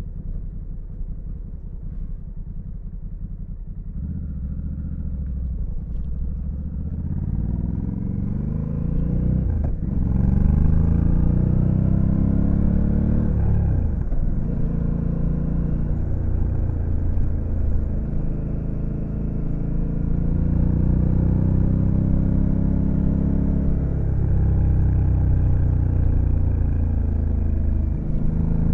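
Honda Africa Twin CRF1100L's 1084 cc parallel-twin engine on the move: a low, steady rumble at first, then pitch and loudness climb under acceleration, with sudden drops in pitch about ten and fourteen seconds in as it shifts up. After that it runs steadier with gentle rises and falls, and climbs again near the end.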